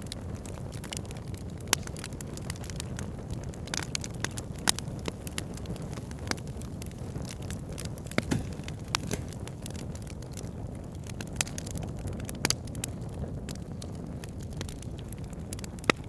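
Fire burning in a fireplace: a steady low rush of flames under frequent sharp crackles and pops, with a few louder snaps scattered through.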